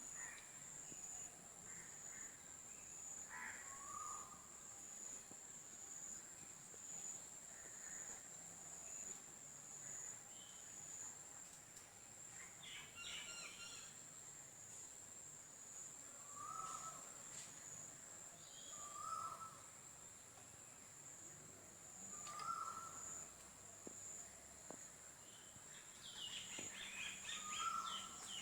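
Faint birdsong outdoors: a short call repeated every few seconds, with brief bursts of higher chirping, the busiest near the end. A steady high-pitched buzz runs underneath.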